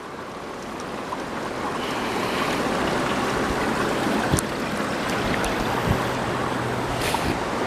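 River rapids rushing: a steady wash of running water that grows a little louder over the first couple of seconds, then holds.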